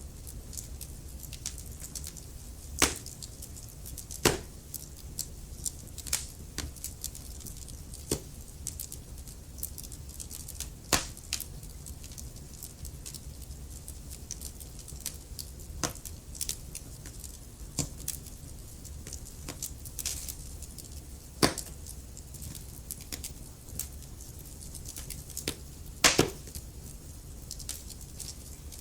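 Wood fire in a fireplace crackling: irregular snaps and pops over a low steady hiss, with a few much louder pops scattered through.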